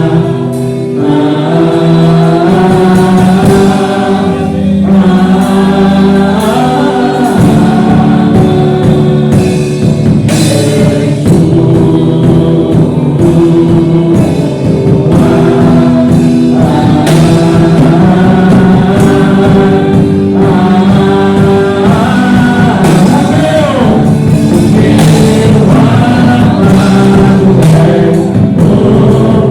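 Gospel worship music: a group of singers holding long sung notes over instrumental accompaniment.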